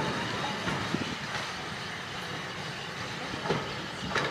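Heritage railway passenger coaches rolling away along the track. The wheels clack over the rail joints a few times as the sound slowly fades.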